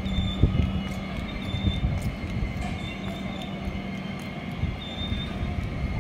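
Express train running through the station without stopping as it moves away: the coaches' wheels rumble steadily on the rails, with short high wheel squeals now and then.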